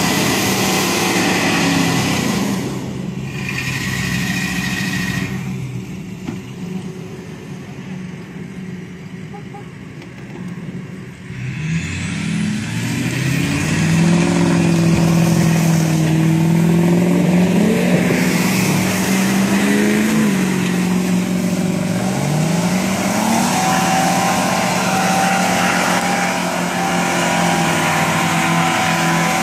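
Pickup truck engines revving hard under load while pulling stuck trucks out of mud. The engine note drops back for a few seconds, then climbs steeply about twelve seconds in and holds high, rising and falling as the pull goes on.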